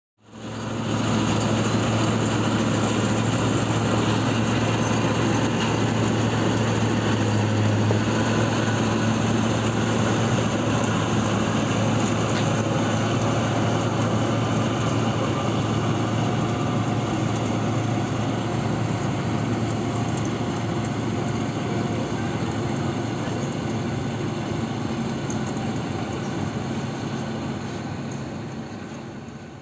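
Steady running noise of a passenger train on the move, with a constant low hum under an even rush of noise; it fades out near the end.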